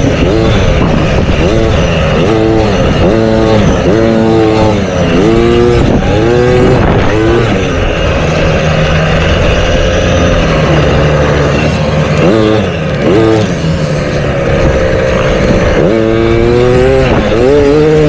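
Motocross bike engines running loud, the pitch climbing and dropping back again and again, about once a second, as the throttle is worked through the gears. Midway the engine note runs steadier, then it revs up and down again near the end.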